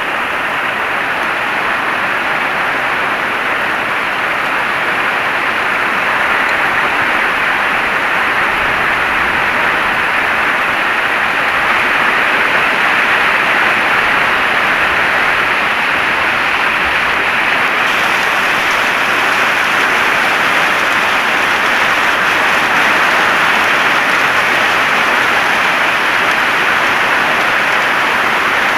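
Heavy rain falling in a steady, dense hiss, growing slightly louder partway through.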